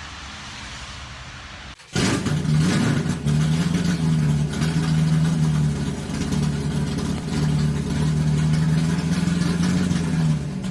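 An engine running steadily, cutting in suddenly about two seconds in after a moment of quiet background.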